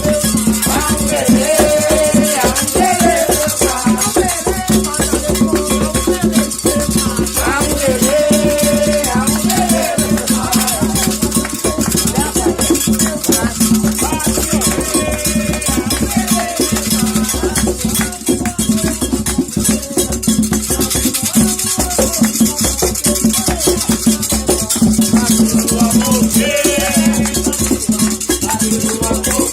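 Candomblé ritual music: steady fast percussion with shaken rattles and drums, under chanted singing.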